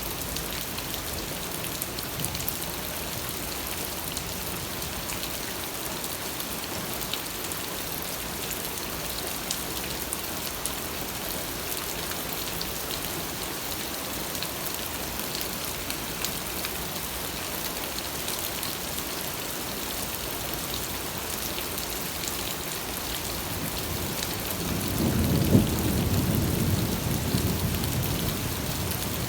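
Steady rain falling, with a continuous hiss and many small drop ticks. Near the end a roll of thunder rumbles in, peaking with a sharp crack and then slowly fading.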